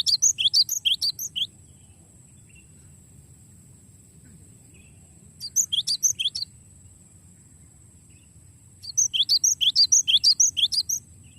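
Cinereous tit (gelatik batu) singing its rolling song: three phrases of rapid, repeated, sharply falling whistled notes, about eight a second. The phrase in the middle is short and the last one is the longest.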